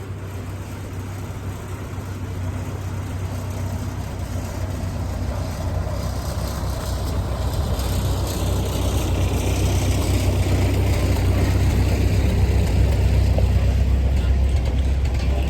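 Stick (arc) welding: a steady crackle over a strong low hum, slowly getting louder.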